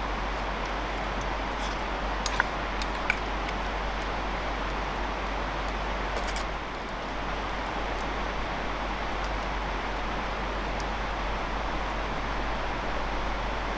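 Campfire cooking: a steady sizzling hiss with two sharp pops about two and three seconds in.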